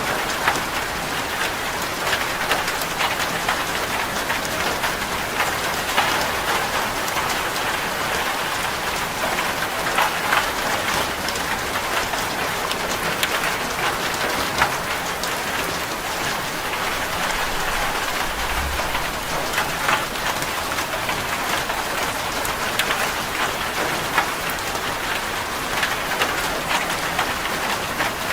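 Steady rain drumming on a corrugated zinc sheet-metal roof, a dense patter with many individual drops ticking sharply on the metal.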